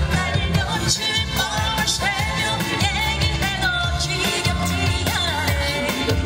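A woman singing a Korean pop song live with a wide vibrato over a loud backing band with heavy bass and drums.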